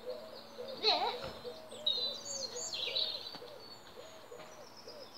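Garden bird calls: a low call repeating about twice a second, with higher chirps from a small songbird about two seconds in. A brief falling squeal about a second in is the loudest sound.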